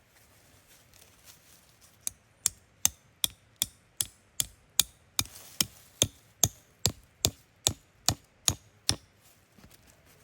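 A run of about eighteen sharp, evenly spaced striking blows, roughly two and a half a second. It starts about two seconds in and stops about a second before the end.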